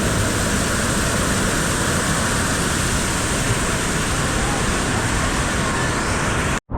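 Steady rushing and splashing of falling water, an even loud hiss that cuts off suddenly near the end.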